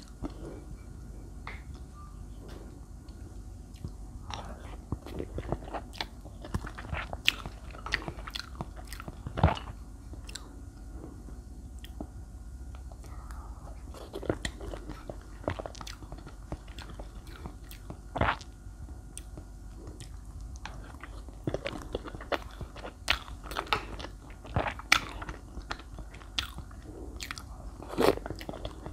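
Close-miked chewing and biting of chocolate-coated sponge layer cake soaked in milky cream: irregular wet mouth smacks and clicks, with a few louder bites scattered through.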